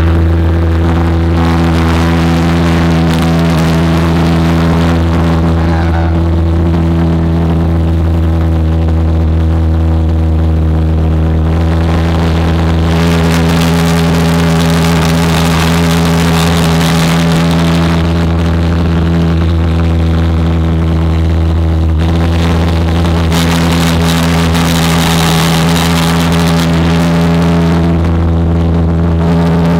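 Homemade jet engine running steadily: a loud, constant low hum with many overtones. Stretches of rushing noise join it about twelve seconds in and again about twenty-three seconds in.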